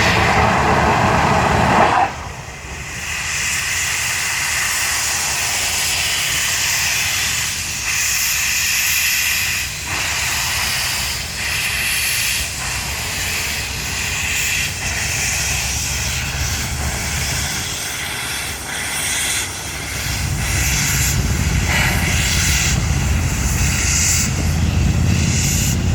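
Steam locomotive letting off steam: a louder burst of steam in the first two seconds, then a steady hiss. About twenty seconds in, a low rumble from the locomotive joins the hiss.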